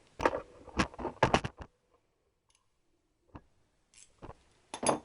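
Irregular metallic clicks and knocks of a spanner working on nuts: a quick run of clicks in the first second and a half, a pause, then single clicks and a louder pair near the end.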